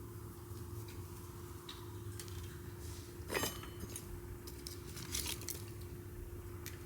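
Wood fire crackling with scattered sharp pops and snaps, the loudest one about three and a half seconds in and a quick cluster of cracks a little after five seconds, over a steady low hum.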